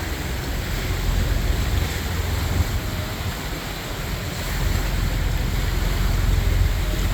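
Wind buffeting the microphone over the steady wash of choppy canal water, with a low rumble that swells again past the middle.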